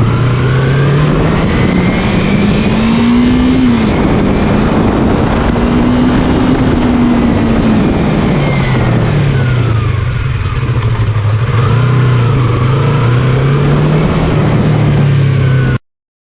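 Yamaha R3 motorcycle's parallel-twin engine running through its exhaust and being revved: the pitch climbs and drops sharply about four seconds in, climbs again, then falls back and wavers low. The sound cuts off suddenly near the end.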